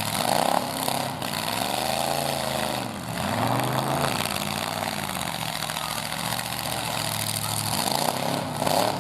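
Full-size pickup truck engines revving hard in a demolition derby. Their pitch rises and falls repeatedly, several engines overlapping.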